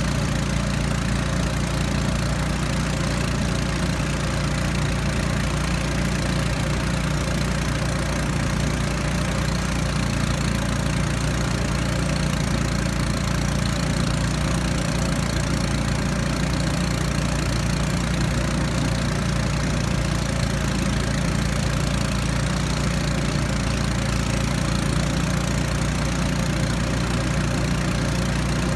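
Small outboard motor of a river raft running steadily at an even speed, a constant low drone with no change in pitch.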